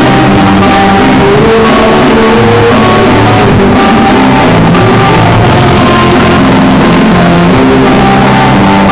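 Loud rock music led by guitar, dense and unbroken, with held notes changing every half second or so.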